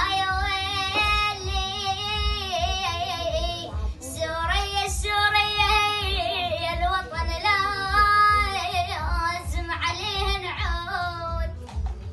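A child singing an Arabic song in four long phrases with ornamented, wavering notes, over a low steady beat.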